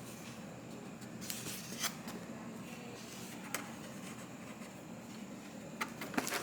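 A few light clicks and rustles of things being handled over a steady low room hum.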